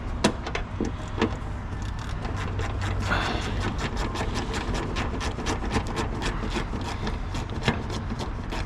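Hands working plastic trim clips and bumper connectors. There are scattered sharp clicks and taps and, in the second half, a quick run of light ticks, over a steady low hum.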